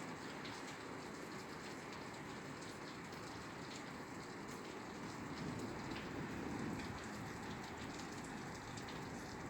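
Steady rain falling on a roof, an even patter with scattered drips ticking against it, growing slightly fuller about halfway through.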